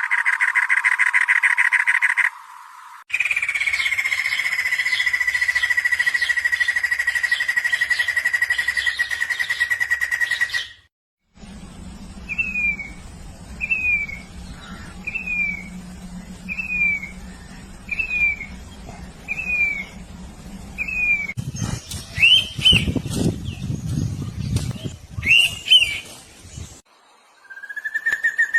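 A run of different birds' calls, cut one after another. First a fast trill, then a long, even trill lasting about eight seconds, then short down-slurred whistles about one and a half seconds apart over a low hum, then a few harsher calls, and near the end another trill.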